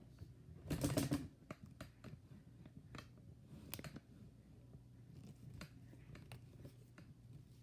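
Scattered light clicks and taps of packaging and gear being handled, with one louder rustling burst about a second in. A faint steady hum sits underneath.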